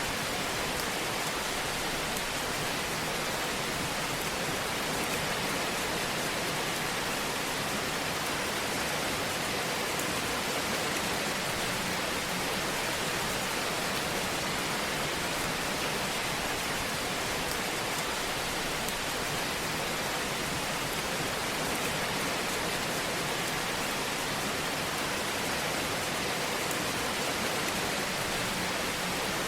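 Fire burning in a fireplace: a steady, even hiss with faint scattered crackles.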